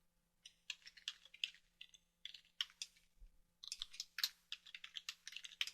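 Faint typing on a computer keyboard: irregular runs of keystrokes, sparse at first and quicker about two-thirds of the way in.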